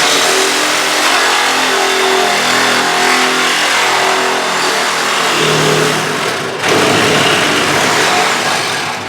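Sawzall reciprocating saw running flat out and cutting, with a brief dip about two-thirds of the way through before it carries on cutting.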